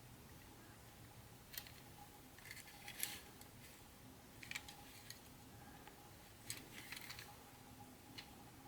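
Faint, scattered clicks and light rustles of small model-train parts and packaging being handled during an unboxing, about five brief bursts with the sharpest about three seconds in, over a low steady hum.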